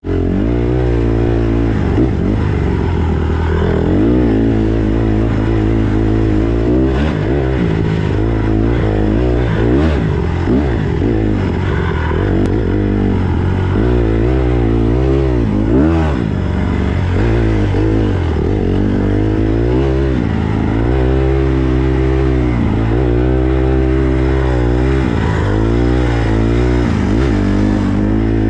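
Small four-stroke dirt bike engine being ridden hard on a trail, revving up and dropping back over and over as the throttle is opened and closed.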